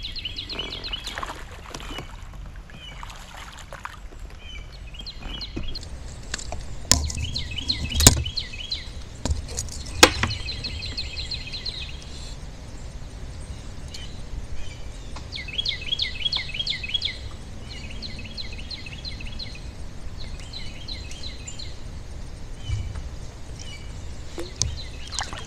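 A songbird singing over and over, short phrases of quick repeated high notes, against a steady low rumble of wind and water. A few sharp knocks come through, the loudest two about eight and ten seconds in.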